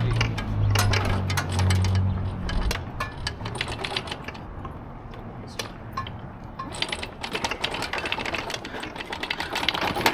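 A low engine hum that cuts off a few seconds in, with irregular metallic clicking and rattling that goes on throughout.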